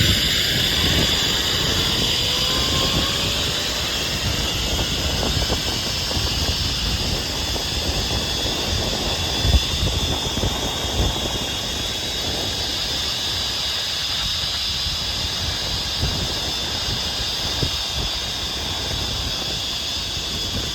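Zipline trolley's pulleys running along the steel cable, a steady high hissing whine, with wind rumbling on the microphone.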